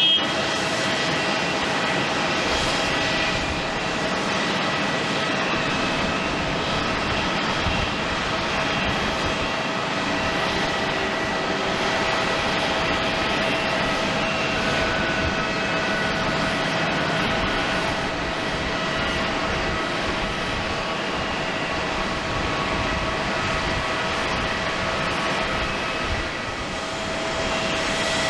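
Jet airliner engines running with a steady rushing sound and a constant high whine.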